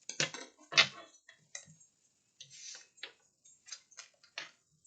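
Tarot cards being handled and laid down: irregular light clicks and taps, a louder knock about a second in, and a short rustle midway.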